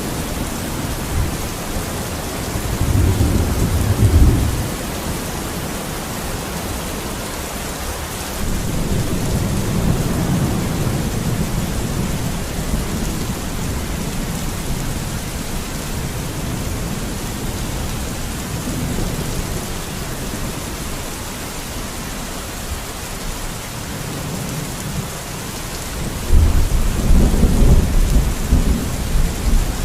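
Steady rain falling. A low rumble swells up a few times, the loudest near the end.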